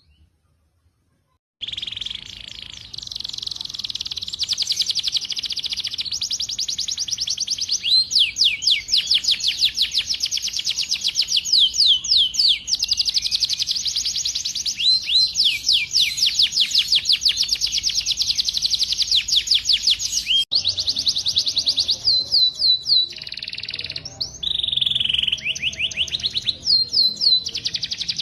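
A songbird singing a fast, continuous run of rapid, high, downward-sweeping notes, beginning after a short silence about a second and a half in.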